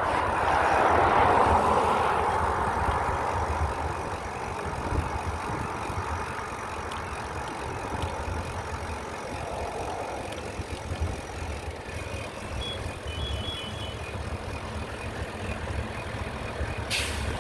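A motor vehicle going by, loudest in the first two seconds and then fading away, over a steady low rumble.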